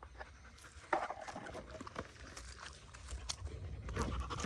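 A dog close to the phone's microphone, licking and sniffing at it: scattered wet clicks and smacks over a low rumble.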